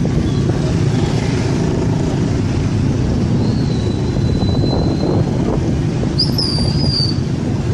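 Steady vehicle running and road noise, heard from on board a moving vehicle, with a faint high whistling tone midway and brief high chirps near the end.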